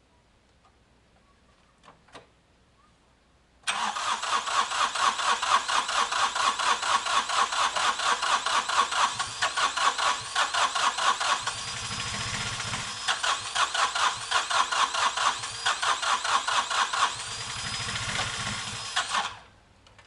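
Tractor engine being cranked by its electric starter, with a steady chug of compression pulses over a starter whine. It cranks for about fifteen seconds without settling into a run, smoothing out twice, then stops suddenly when the starter is released.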